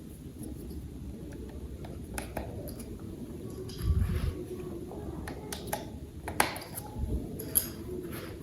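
Small plastic toy parts being handled: scattered sharp clicks and taps, with a couple of soft low knocks, about four seconds in and again near seven seconds.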